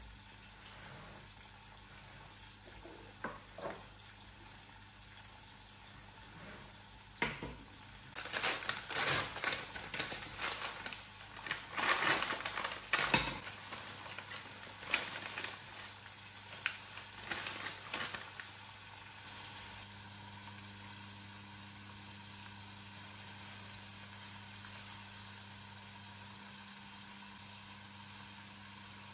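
Food frying in a pan with a low sizzle, with a run of stirring and kitchen-utensil clatter from about seven to eighteen seconds in.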